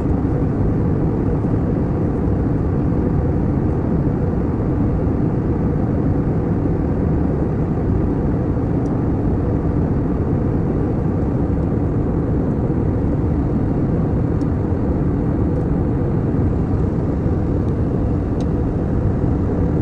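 Airliner cabin noise in flight: a steady low rumble of engines and rushing air that does not change.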